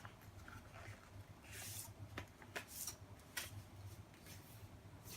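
A sheet of paper being folded and creased into a paper airplane's second wing: faint rustling and several short crinkles.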